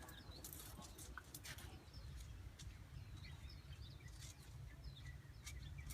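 Faint outdoor ambience: a low steady rumble with scattered faint, short bird chirps.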